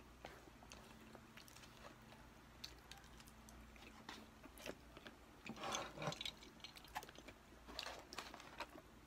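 Faint close-up eating sounds from a fast-food meal: chewing, small clicks of plastic cutlery against the food boxes and rustling of the paper packaging, with louder bursts about five and a half seconds and eight seconds in.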